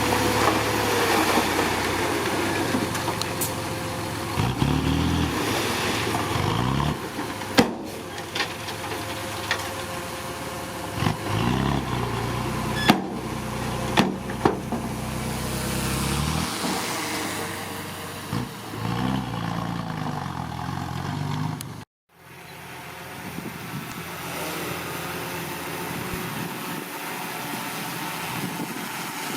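Diesel engine of heavy earthmoving machinery working, its pitch rising and falling several times under changing load, with a few sharp knocks. The sound breaks off briefly about three quarters of the way in, then the engine runs more steadily.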